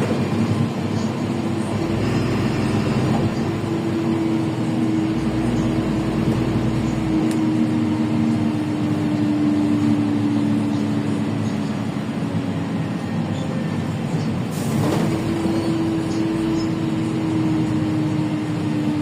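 Inside a LiAZ 5292.65 city bus with a Yuchai diesel engine under way. The engine and drivetrain drone steadily, with a whining tone that slowly drops in pitch. About fifteen seconds in there is a short knock, and the tone comes back a little higher and drops again.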